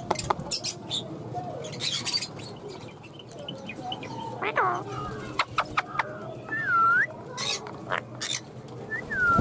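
Birds calling: many short sharp chirps, one call falling steeply in pitch about halfway through, and a few whistled calls that dip and rise again near the end.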